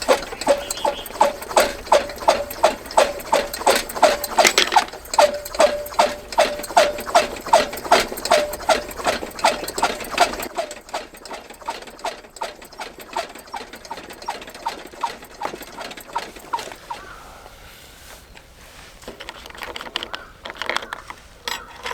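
Rhythmic hard knocking, about three strokes a second, each stroke with a short ringing note. After about ten seconds the knocks grow weaker and sparser, with a few louder ones again near the end.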